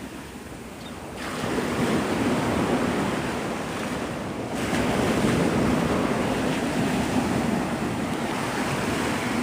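Gulf surf breaking and washing on the beach, with wind buffeting the microphone; the noise swells about a second in and again a few seconds later as waves come in.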